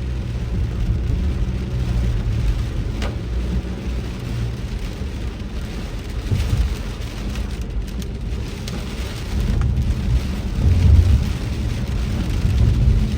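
Heavy rain drumming on a moving car, heard from inside the cabin as a steady hiss over a deep, continuous rumble of the car and the downpour.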